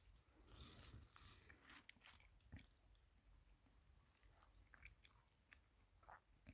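Near silence with faint rustling about half a second to two seconds in, and soft scattered clicks and ticks throughout.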